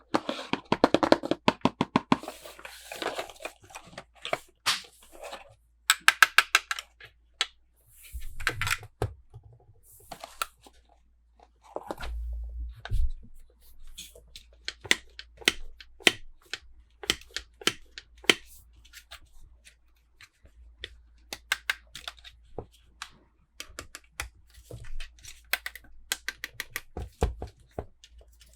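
Hands unboxing small plastic toys: packaging crinkling and tearing, with many sharp clicks and taps of small plastic pieces. Twice there is a rapid run of clicks, near the start and about six seconds in, and there is a dull thump about twelve seconds in.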